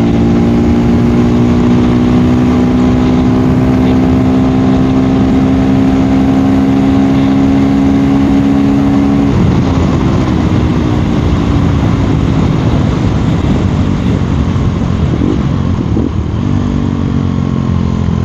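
KTM Duke 390 single-cylinder engine running under way at a steady note that creeps slowly up in pitch. About halfway through, the steady note breaks off into a rougher, noisier sound. A steady note comes back near the end.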